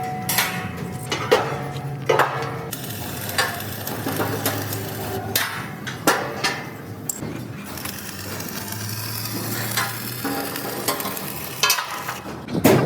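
Steel fabrication work on a trailer body: scattered metal clanks and knocks, some ringing briefly, over a steady low hum and a crackling sizzle.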